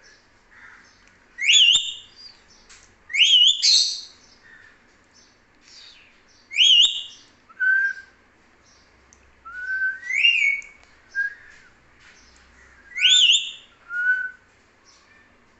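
Pet parrot whistling: a string of about ten short, loud whistles, each rising then wavering, in loose groups with pauses between.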